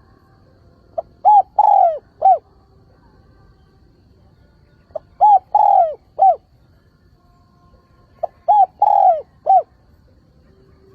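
Spotted dove cooing: three repeated phrases, each a faint short note followed by a short coo, a long drawn-out coo and a short coo, about every three and a half seconds. This is the male's calling song, used as a lure call to draw in and provoke wild doves.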